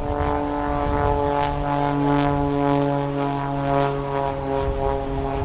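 Pitts Special aerobatic biplane's propeller engine droning steadily overhead, its pitch sinking slowly.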